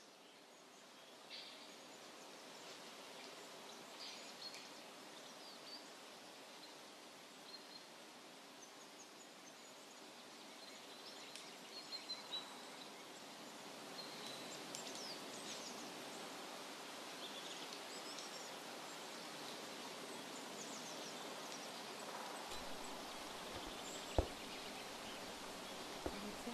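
Faint outdoor ambience with scattered bird chirps coming through an open door, and a couple of sharp clicks near the end.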